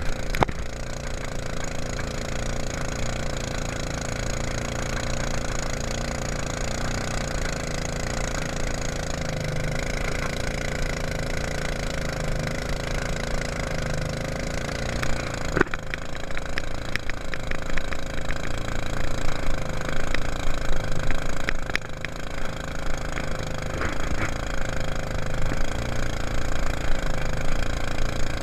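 Mud Buddy long-tail mud motor running steadily on a jon boat, its engine note wavering slightly in pitch. From about 16 seconds in, the sound becomes louder and more uneven.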